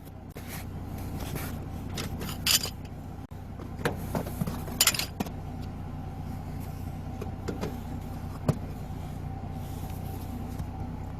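Vehicle engine running steadily with a low hum, with scattered sharp metallic clicks and knocks over it, the loudest about two and a half and five seconds in.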